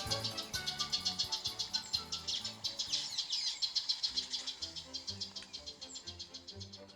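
Insect chirping in fast, even pulses, several a second, that cut off abruptly at the end, over soft background music with sustained low notes. A few faint bird chirps come through.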